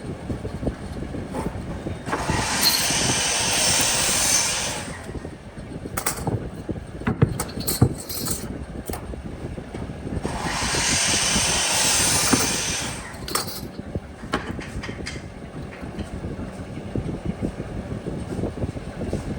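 Wood being worked with a tool: two long hissing, scraping passes of about three seconds each, about two seconds in and again about ten seconds in. Scattered knocks and clicks sound between them over a steady low rumble.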